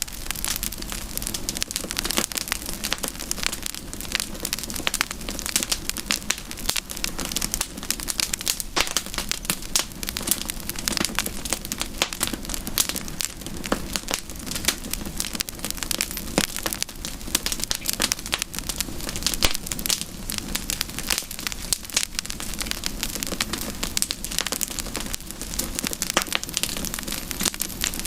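Campfire crackling: a dense, irregular run of sharp pops and snaps over a steady hiss.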